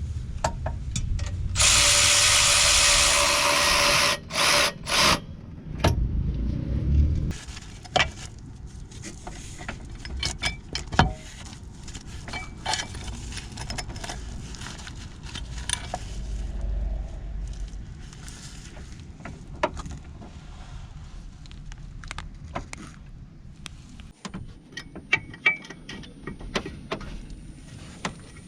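A power tool runs in one loud burst of about two seconds, then three short blips, followed by scattered clicks and knocks of metal tools and parts being handled.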